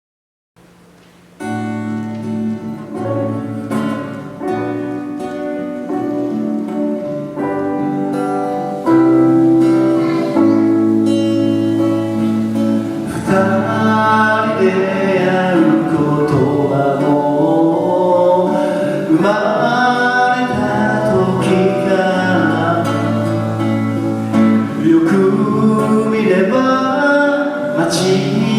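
Rock/pop band playing a song live: held chords in a steady pattern open the song, and a singer comes in about halfway through.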